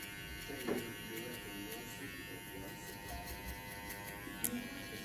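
TPOB GO electric hair clippers running with a steady buzz during a haircut, with a sharp click about four and a half seconds in.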